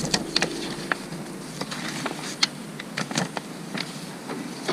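Handling of a paper instruction booklet as it is opened and leafed through: scattered light clicks and rustles. A faint steady hum runs under the first second and a half.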